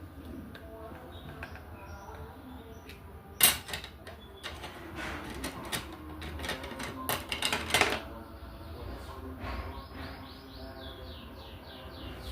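Diamond-painting tools clicking and tapping: resin drills and the applicator pen against the tray and canvas, with one sharp tap about three seconds in and a run of clicks after it. Near the end a bird gives a quick series of about ten high, falling chirps.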